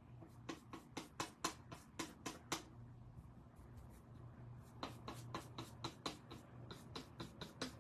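Paintbrush working acrylic paint, a run of quick short strokes at about four a second, pausing for about two seconds in the middle before starting again.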